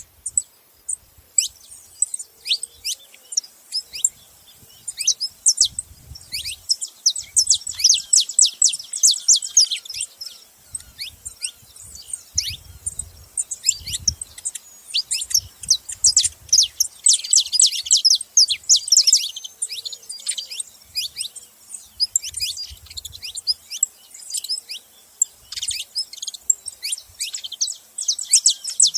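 Saffron finches chirping: a dense, continuous stream of quick high chirps, many sweeping downward, growing thicker in bursts now and then.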